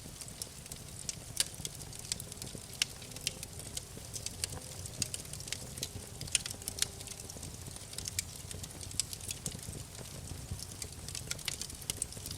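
Wood fire crackling in a fireplace: irregular sharp pops and snaps over a low, steady rumble of the burning.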